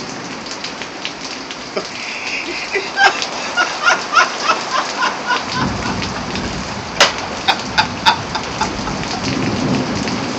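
Heavy rain falling steadily, with many sharp drips and splashes close by. About halfway through, a low rumble of thunder comes in and keeps going, swelling near the end.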